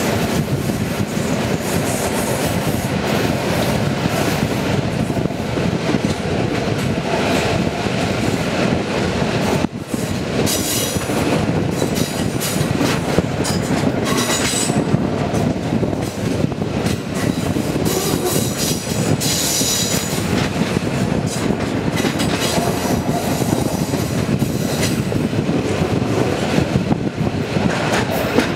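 Passenger train carriage running over the rails, heard through an open window: a steady rumble of wheels on track with rail clatter, and spells of high-pitched noise between about ten and twenty seconds in as the train runs in toward a station.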